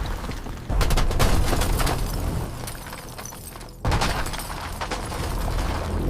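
Two sudden loud booms about three seconds apart, each followed by a crackling rumble that slowly dies away.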